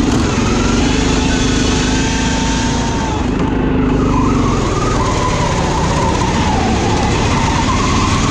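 Riding lawn mower engine running hard, its pitch holding, dipping a few seconds in and then climbing again near the end as it revs back up.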